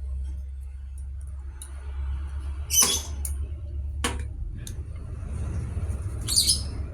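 A few sharp metallic clicks, one louder than the rest, and a short squeaky rattle near the end, from metal engine parts and tools being handled, over a steady low hum.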